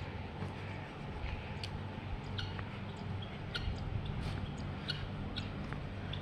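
Birds chirping in short, scattered calls over a steady low machine hum.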